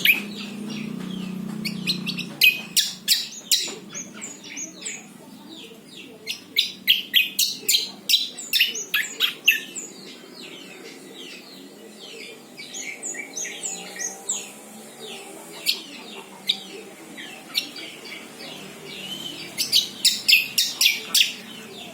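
A songbird chirping in rapid runs of short, high, downward-sliding notes, with the loudest, densest runs near the start and again near the end.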